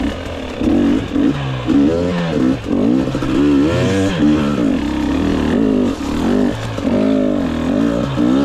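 2022 GasGas EX 250 two-stroke fuel-injected enduro motorcycle engine being ridden, its revs rising and falling over and over as the throttle is opened and closed.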